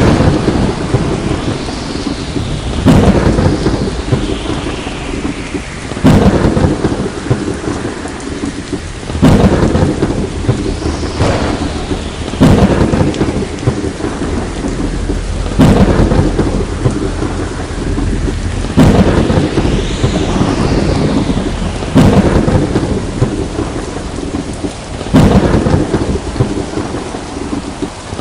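Heavy rain falling steadily, with thunder crashing in sudden loud claps that recur about every three seconds, each fading into rumble before the next.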